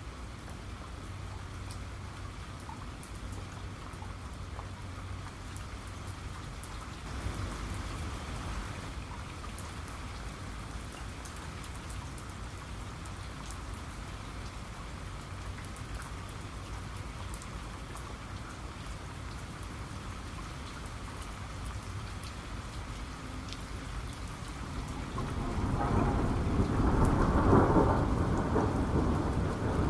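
Steady rain with scattered drips and a low rumble underneath. About 25 seconds in, a loud roll of thunder builds and keeps rumbling.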